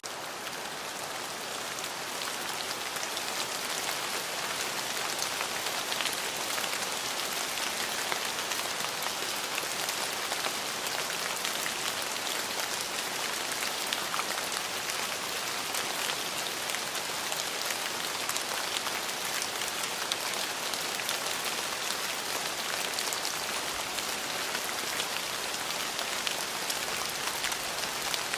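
Steady rain falling, with many individual drops striking.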